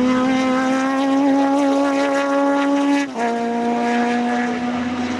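Historic sports racing car's engine running hard under acceleration, its pitch climbing steadily, then dropping sharply on an upshift about three seconds in and carrying on.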